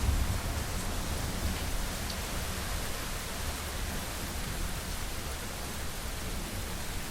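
Steady heavy rain on a window: an even hiss with a low rumble underneath.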